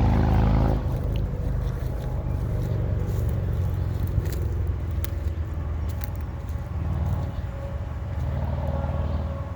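An engine running steadily at a low, even idle-like rumble.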